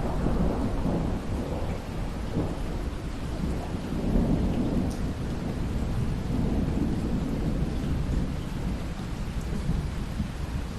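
Rolling thunder over steady rain. The low rumble swells and eases several times and is loudest about four seconds in.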